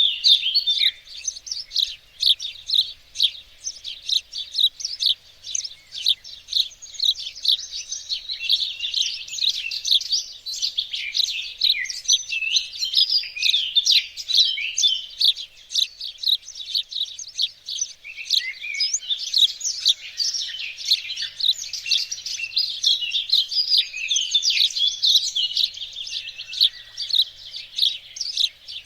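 Several songbirds singing and chirping at once in a continuous, busy chorus of short, high notes and trills.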